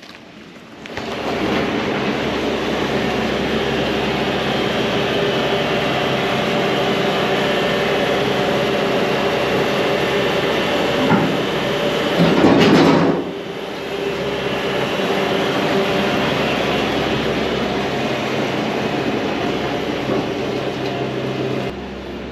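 Heavy diesel machinery running steadily, with a rumbling drone and clatter, louder for a moment about halfway through.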